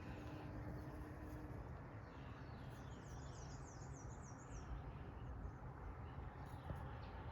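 A songbird sings a short run of about eight quick, falling high notes about three seconds in, over a steady low outdoor rumble.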